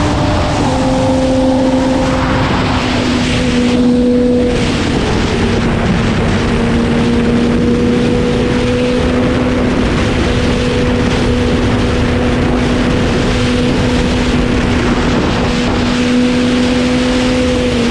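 Sport motorcycle engine running hard at a steady speed through an aftermarket exhaust, with heavy wind rushing over the microphone. Its pitch steps down about a second in and again around four and a half seconds, then holds and slowly creeps up before dropping near the end.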